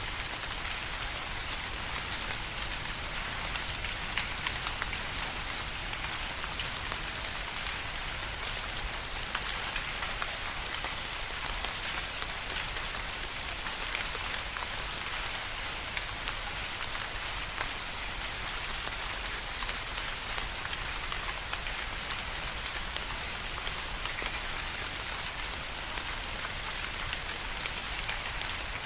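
Steady rain falling, an even hiss with many distinct drops pattering throughout.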